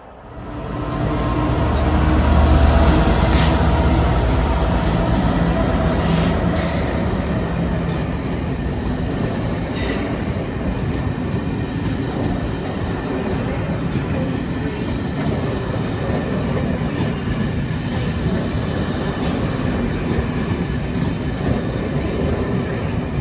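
A train passing close at speed. The sound rises fast as it arrives and is heaviest and lowest in the first few seconds, then settles into a long steady rush of wheels on rail. A few sharp clacks come about 3, 6 and 10 seconds in.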